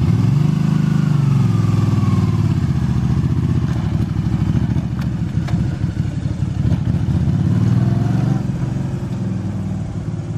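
Motorcycle engine under throttle as the bike moves off from a standstill with the clutch let out. The engine note rises about a second in, drops back and runs steadily, then rises again briefly near the end.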